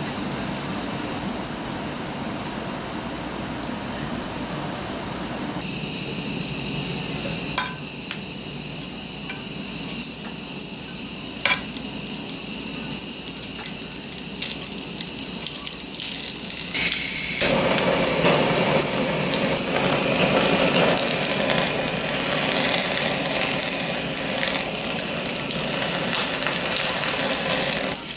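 A steady whoosh, then a quieter stretch with a few light clicks and knocks of kitchen utensils; about two-thirds of the way through, loud sizzling of food frying in a hot pan starts and keeps going.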